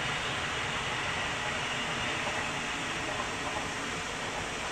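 Rhaetian Railway passenger train running away into the distance, a steady hiss of wheels on rail that slowly fades, with faint high tones dying out early on.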